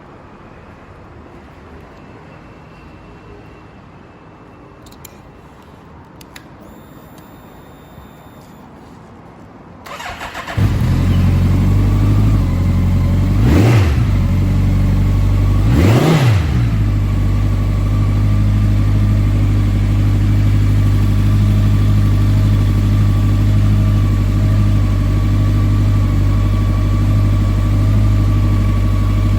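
Honda CB1100EX's air-cooled inline-four breathing through a Moriwaki four-outlet exhaust: after a few faint clicks, about ten seconds in it is started and catches, is revved twice in quick blips, then settles into a steady idle.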